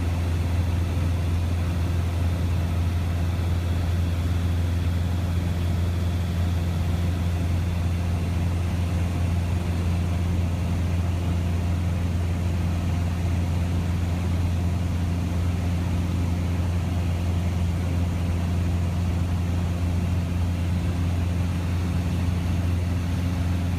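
Cessna 172S's four-cylinder Lycoming IO-360 engine and propeller running at a constant setting, a low, steady drone that does not change.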